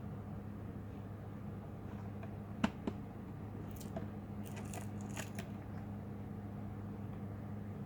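Plastic parts of an HP 15 laptop being handled during disassembly: a sharp click a little under three seconds in, a lighter click just after, then a few short scratchy, crinkly scrapes, over a steady low hum.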